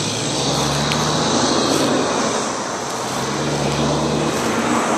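Road traffic passing: steady tyre and engine noise, with a low engine hum swelling twice.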